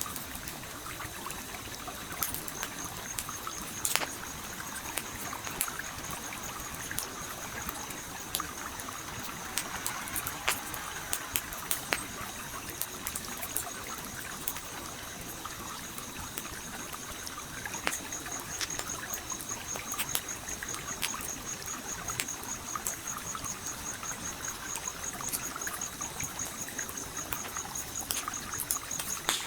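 Campfire crackling with irregular sharp pops over the steady rush of a flowing stream. A high, fast-pulsing trill runs underneath from a couple of seconds in and grows stronger in the second half.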